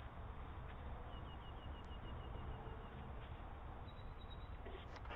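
Faint outdoor background noise with a bird chirping a quick, even run of about a dozen short high notes, roughly six a second, between one and three seconds in, then a few fainter chirps.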